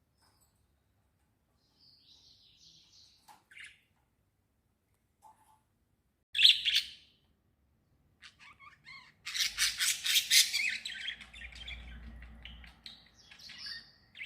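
Small birds chirping and twittering: a few soft chirps, a loud single call about six seconds in, then a fast, loud run of chirps from about nine seconds that trails off into quieter twittering.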